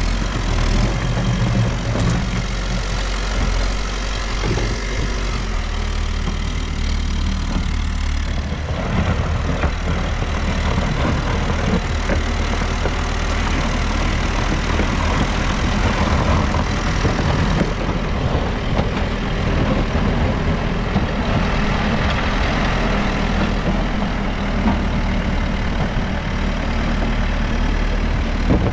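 Diesel engine of a New Holland backhoe loader running steadily, with a noisier, busier stretch in the middle as the machine works.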